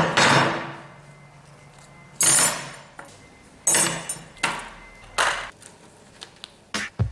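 Hammer blows on steel, about five spaced strikes, each with a sharp clang that rings and fades away over about a second. A few light clicks come near the end.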